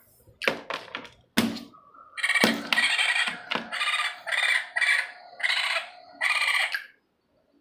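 A few sharp clicks, then a run of about six short, loud, repeated fowl calls, like a chicken's.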